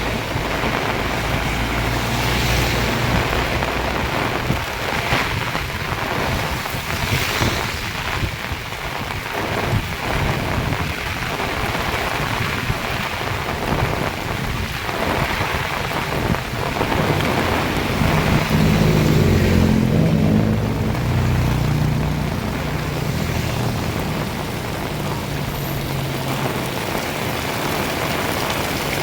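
Heavy rain pouring steadily. For several seconds past the middle, a low droning hum, like an engine, rises under it and fades.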